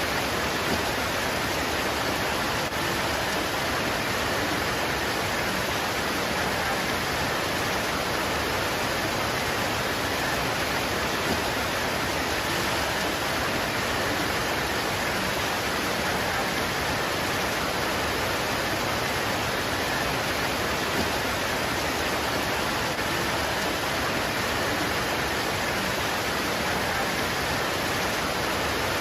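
Rain pouring steadily onto leaves, a dense, even hiss with no separate drops standing out.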